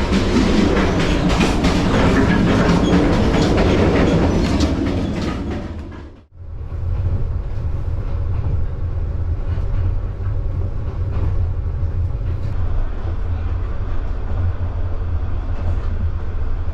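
Passenger sleeper train running on the track: loud rattling clatter of the moving carriage, wheels clicking over the rails. It fades out about six seconds in, and a steadier, duller low rumble of the train follows.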